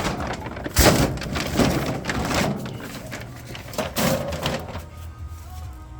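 Consigned items being handled and set down: a series of knocks and clatter with rustling between them, fading out near the end.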